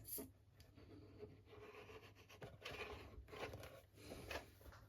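Faint scraping, rubbing and a few light taps of small model boat kit parts being handled and fitted together around the prop shaft.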